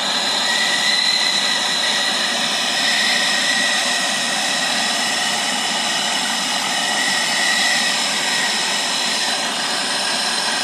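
Gas soldering torch burning steadily, a continuous hiss with a faint high whistle, while brazing a charging valve on an air-conditioner line.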